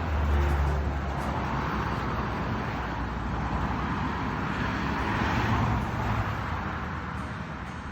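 Motor vehicle noise: a steady rush with a low rumble, swelling about five seconds in.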